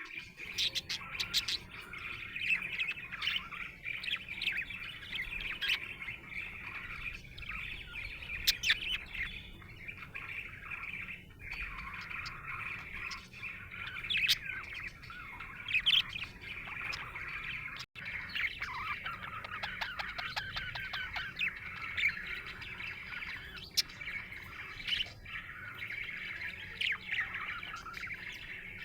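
Budgerigar chattering and warbling, a steady stream of rapid chirps and squeaky notes with occasional sharper, higher chirps.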